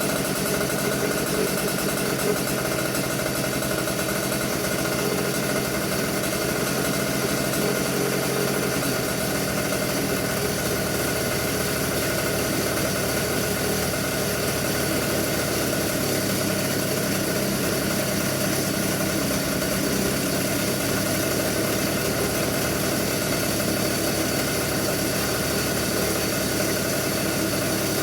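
Komet K30 142cc two-stroke vintage kart engine running steadily on methanol, being heat-cycled to break in a new piston kit after a rebuild. Its tone shifts slightly about a third of the way through.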